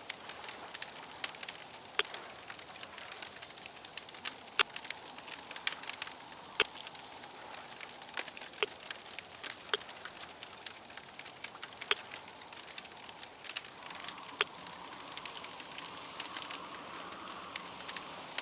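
Campfire crackling: a steady hiss scattered with irregular sharp pops, the louder ones every second or two.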